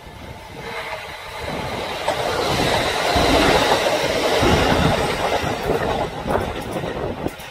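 Train running on rails with a clattering noise that builds from near the start, is loudest in the middle and fades away towards the end.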